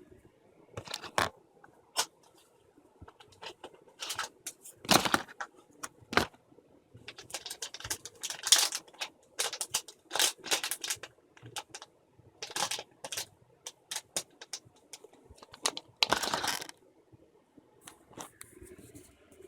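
Irregular clicks, taps and rustling bursts of a small electronics expansion board and its packaging being unwrapped and handled. The loudest bursts come about 5 s, 8–11 s and 16 s in.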